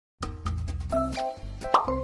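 Bouncy, cartoon-style background music with plucky short notes and a quick rising 'boing'-like sweep shortly before the end; it starts abruptly just after the beginning.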